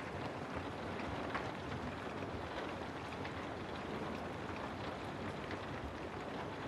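Steady rain falling, with scattered single drops ticking now and then.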